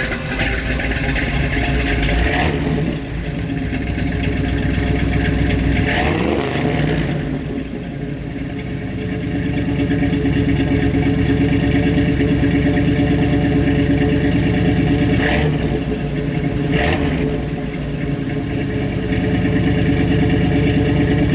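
1956 GMC 100 pickup's 400 small-block Chevy V8 running through a dual 2.5-inch exhaust with Flowmaster-style mufflers and no H-pipe, with a deep exhaust note. It idles with a few brief revs, one about six seconds in.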